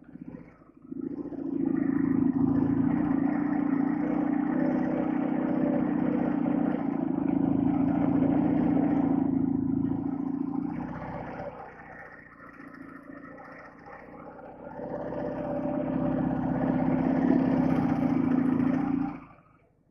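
Soviet-built flat-twin motorcycle engine pulling steadily under load, easing off for a few seconds midway and then opening up again, before the sound drops away abruptly near the end.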